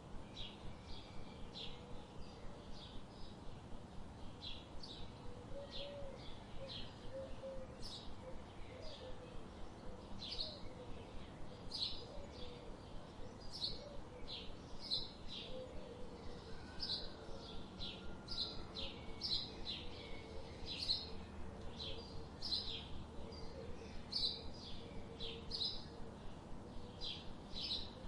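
Birds chirping: short, high chirps repeating about twice a second without pause, over fainter, lower warbling calls.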